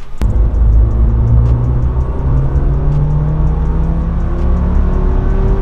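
Nissan Silvia's SR20 four-cylinder engine heard from inside the cabin as the car is driven and accelerates, its pitch rising slowly.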